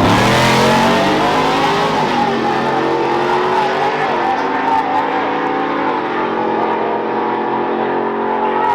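Drag-racing truck engine launching hard and accelerating at full throttle. The pitch shoots up at the launch, then climbs again after a step down at each of several gear changes.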